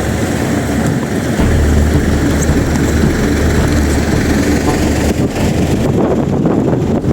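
Blizzard wind buffeting the microphone: a loud, steady low rumble with a rushing hiss over it.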